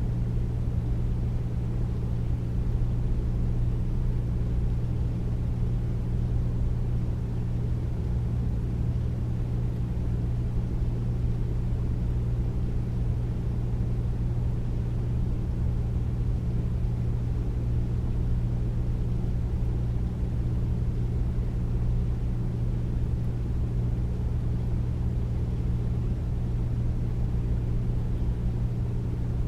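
Air conditioner running steadily: a deep, even hum with steady noise over it, unchanging throughout.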